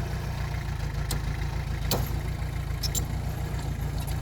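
Heavy earthmoving machine's diesel engine running steadily at idle, a low rumble, with a few short sharp knocks over it.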